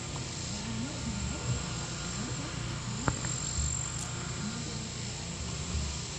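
Insects chirring steadily and high-pitched over a low background rumble, with one sharp click about three seconds in.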